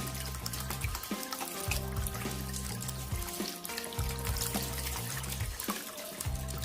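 Water trickling and splashing from a tabletop waterfall fountain, under background music with a repeating low bass pattern.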